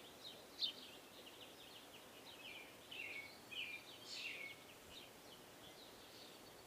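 Small birds chirping at a feeder: many short, high calls and quick downward-slurred notes, overlapping and faint, busiest in the middle.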